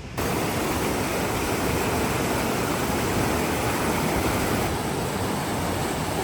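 A steady rushing noise with no tone in it, starting suddenly just after the start.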